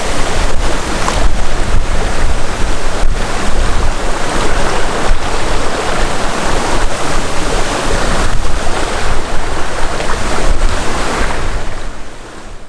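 Wind buffeting the microphone over rushing water from a sailboat moving fast under sail, a loud steady rush with heavy low-end rumble. It fades out near the end.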